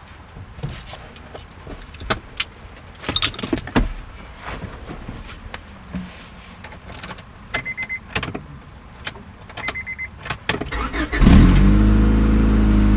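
Scattered clicks and rattles of tools and keys with two short high beeps, then about eleven seconds in the 1997 Honda Accord's engine starts and runs steadily, showing the newly replaced ignition switch works.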